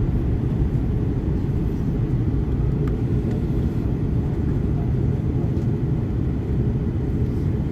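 Steady low drone of an Airbus A330-200's engines and airflow, heard from inside the passenger cabin in flight.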